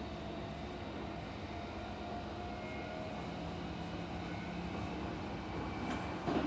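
Meitetsu 5000 series electric train running, heard from inside the passenger car: a steady rumble from the wheels and running gear with a faint steady whine. Two sharp knocks come near the end.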